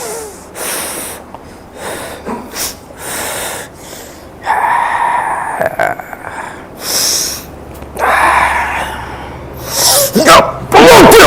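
A person's loud breaths: a series of sharp puffs and gasps, with a louder vocal burst near the end.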